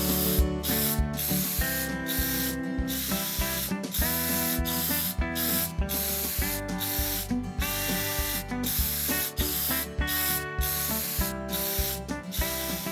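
Cartoon spray sound effect: repeated hissing bursts of spray, each cut off sharply, over cheerful background music with a steady beat.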